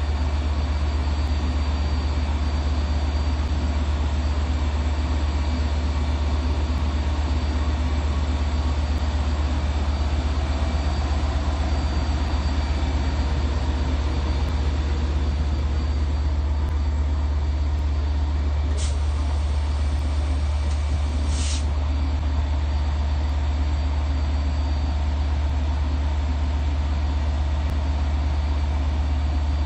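Long Island Rail Road DM30AC diesel locomotives idling, a steady low engine hum. About two-thirds of the way through come two short hisses of air a couple of seconds apart.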